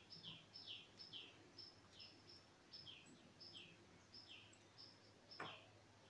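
Faint bird chirping in a quick, even series, about two chirps a second, each a short high note dropping in pitch. A single knock about five seconds in.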